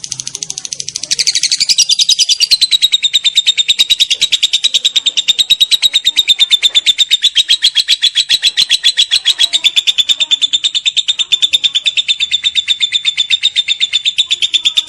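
Lovebird giving its long 'ngekek' call: an unbroken, rapid chattering trill of high, sharp notes, about ten a second, that gets louder about a second in.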